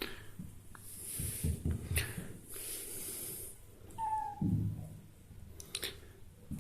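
Blue mitted ragdoll kitten at play, with soft rustling and bumps and one short, high mew about four seconds in.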